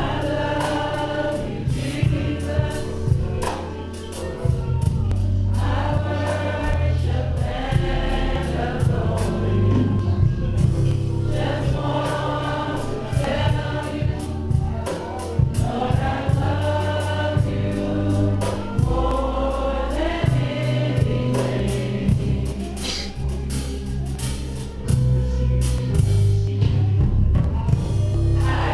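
Gospel music: a choir singing with a band, steady bass notes and drums keeping the beat.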